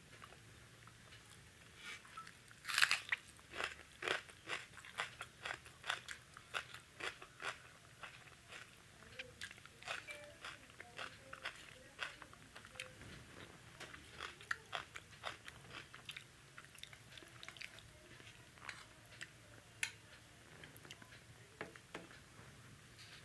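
A person chewing a mouthful of food close to the microphone: a run of short, crisp crunches about two a second, loudest about three seconds in, thinning out after about sixteen seconds.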